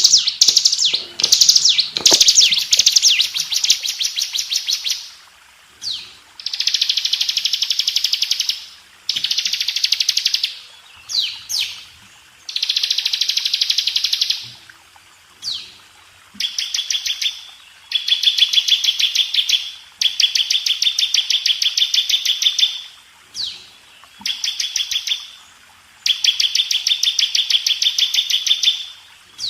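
Bar-winged prinia (ciblek) singing in its 'ngebren' style. It repeats fast, rattling trills of about two seconds each, with short quick sweeping notes in between.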